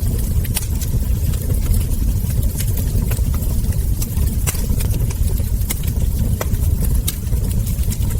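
Wood fire crackling, with frequent sharp pops and snaps of burning logs and embers over a steady low rumble.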